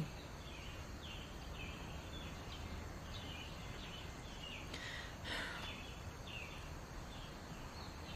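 Outdoor ambience: a steady low background hiss with a bird's faint short falling chirps repeated every half second or so.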